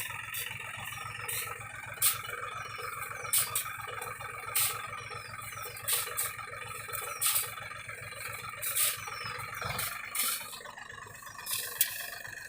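Mahindra tractor's diesel engine idling steadily, its low running sound dropping away about ten seconds in. Over it come sharp, sudden noises roughly every second or so, which are louder than the engine.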